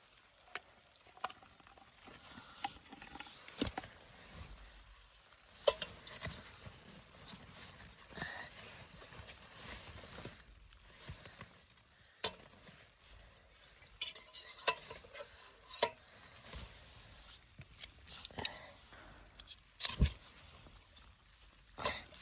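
Irregular light clicks and knocks of cookware and utensils being handled, over a faint hiss.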